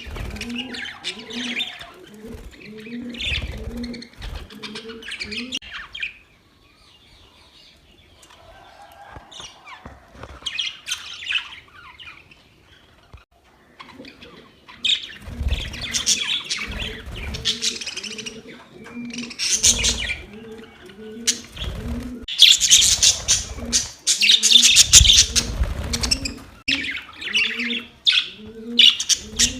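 Budgerigars chirping and chattering in busy bursts, with a quieter lull in the middle. Beneath them, a low pulsing sound repeats two or three times a second for most of the time, along with dull thumps.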